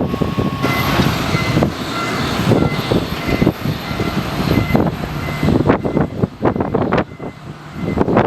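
Strong gusty wind buffeting the microphone in uneven blasts over a low engine hum, with faint repeated beeping in the first few seconds.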